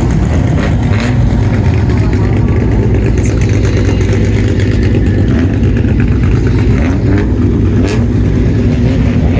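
Loud, steady low rumble of modified bosozoku car exhausts running at low revs.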